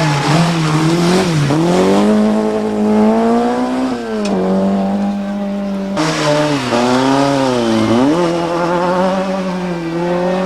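Rally car engine at high revs, its pitch climbing under acceleration and dropping sharply at gear changes. About two-thirds of the way through, the sound cuts abruptly to another run of rising revs and shifts.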